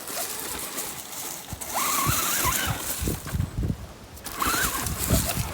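Traxxas RC truck's electric motor whining in two short spells, its pitch rising and falling with the throttle, over a rushing noise.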